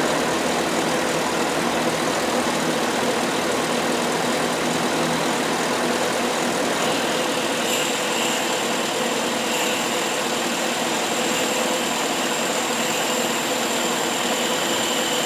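GMC Sierra Denali's 6.2-litre V8 idling steadily while it runs on pressurized fuel-injector cleaner fed in place of fuel, with the fuel pump disconnected. A faint high steady whine joins about seven seconds in.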